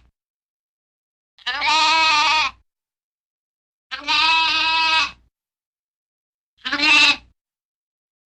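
A goat bleating three times: two long, wavering bleats of about a second each, then a shorter one near the end.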